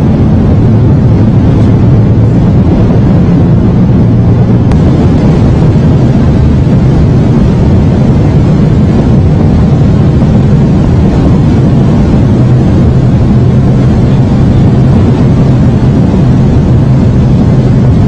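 Passenger-cabin noise of a maglev train accelerating to about 500 km/h: a loud, steady rushing noise over a low hum.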